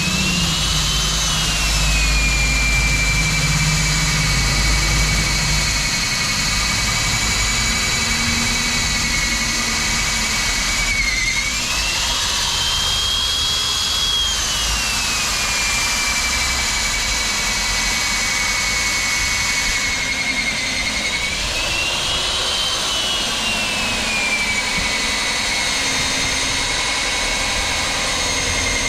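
Electric diamond core drill boring a 110 mm hole through a concrete wall: a steady, loud, high motor whine that rises in pitch three times and settles back.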